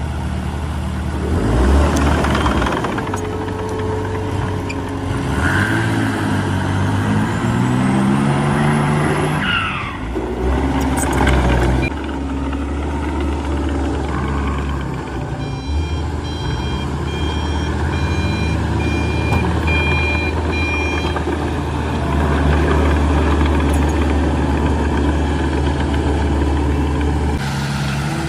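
Heavy diesel machinery running, the engine revving up and down in the first third, with a short hiss about ten seconds in. A reversing alarm beeps repeatedly for about five seconds past the middle.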